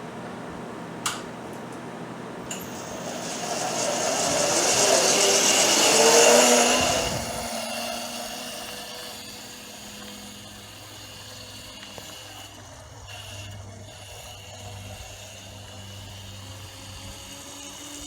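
Electric mini bike's converted car alternator motor whirring, after a couple of sharp clicks; the sound swells over a few seconds, then settles back to a steady lower hum.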